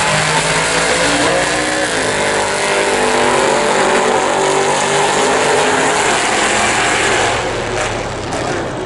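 Drag-racing engines at full throttle down the strip: a Chevrolet V8-powered Toyota mini truck and a Dodge Charger. The engine pitch steps as they pull, and the sound eases off after about seven seconds.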